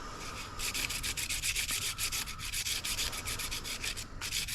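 Sandpaper rubbed by hand in quick back-and-forth strokes on the cut end of a fiberglass fishing rod section, rounding it down so it will fit into the rod's joining piece. The strokes start about half a second in and stop briefly near the end.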